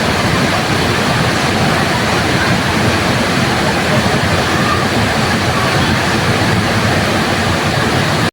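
Waterfall: a steady, full rush of falling water. It drops out for an instant right at the end.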